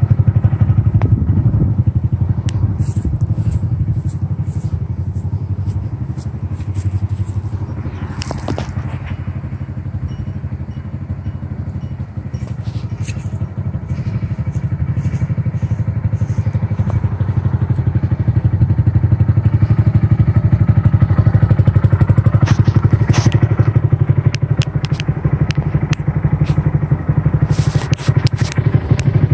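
Honda Grom's single-cylinder engine idling steadily with an even, pulsing beat. It gets somewhat quieter about a third of the way in, then louder again through the second half, with scattered light clicks and scrapes.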